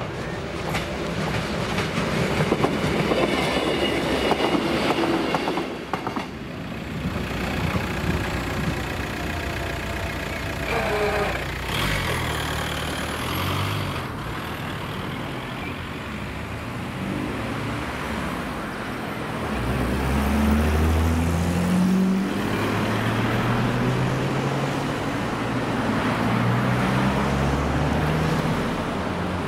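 A train running past the level crossing, then cars driving over the crossing one after another in the second half.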